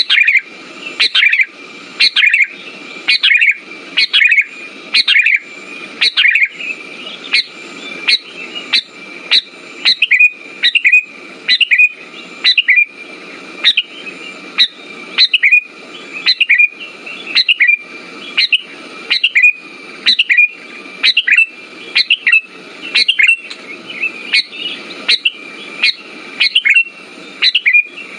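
Sooty-headed bulbul (kutilang) calls repeated at an even, rapid rate of somewhat under two a second over a thin steady high tone, a lure recording meant to set silent bulbuls singing.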